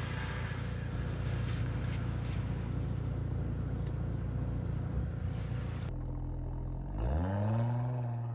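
Steady car driving noise with a low engine hum and hiss. About six seconds in the sound changes abruptly, and an engine revs up, rising and then holding a steady higher note.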